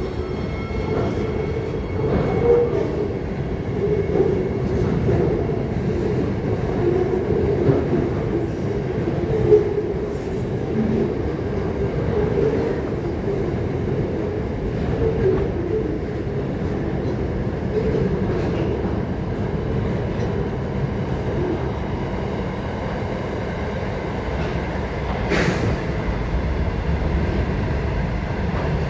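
A train running on rails: a steady rumble of wheels and carriages, with scattered clicks and one sharp click near the end.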